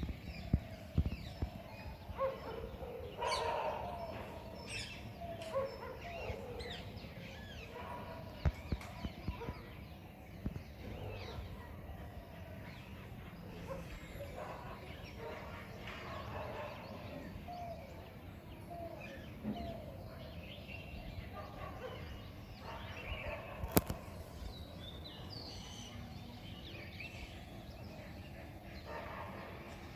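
Many birds calling and chirping in a morning chorus, with short calls overlapping throughout. A low rumble runs underneath, and one sharp click comes late on.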